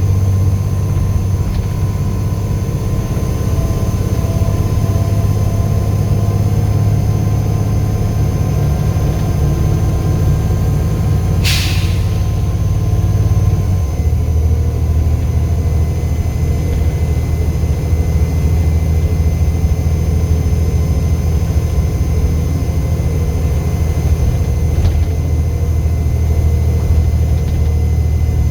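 Volvo B7 bus's turbocharged diesel engine running under way, a steady high turbo whistle over its low drone. About eleven seconds in comes a short hiss of air, and soon after the engine note drops to a lower pitch.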